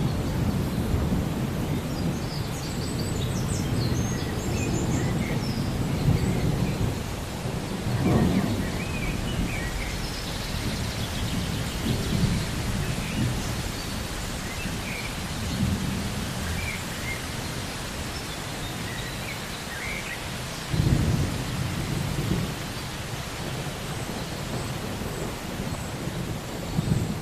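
Thunderstorm: steady rain hiss with low rolls of thunder swelling and fading, the strongest about eight seconds in and again about twenty-one seconds in. A few faint high chirps sound over the rain in the first few seconds.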